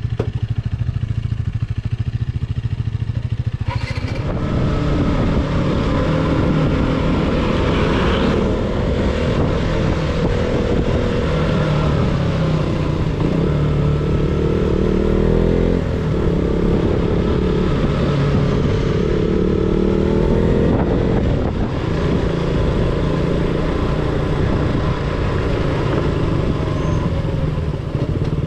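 KTM single-cylinder motorcycle engine running on the move, its note fuller from about four seconds in, then rising and falling in pitch with the throttle over a steady rushing noise.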